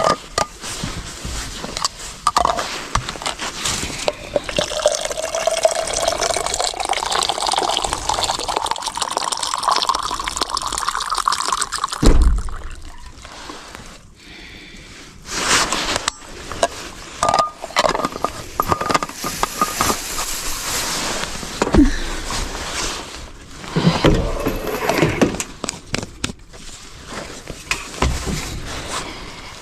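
Water poured into a container, its note rising steadily in pitch as it fills for several seconds, then stopping. Scattered knocks and clatter of things being handled follow.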